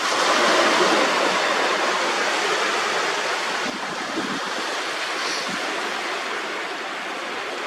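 Shallow sea water washing and lapping over sand at the shoreline, a steady rush that swells just after the start and slowly eases.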